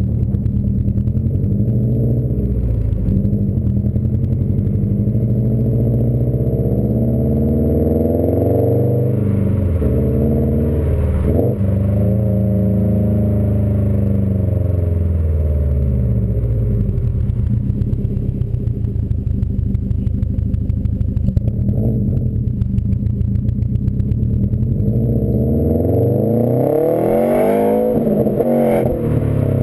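2015 Subaru WRX STI's turbocharged 2.5-litre flat-four running through a Nameless aftermarket exhaust, loud throughout. The engine pitch rises and falls several times, then climbs steeply near the end and drops off suddenly.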